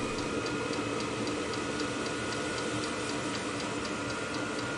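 VEVOR diesel air heater running: a steady whoosh from the combustion fan and burner, which sounds a little like a jet engine, with the fuel pump ticking about four times a second as it pulses diesel into the burner.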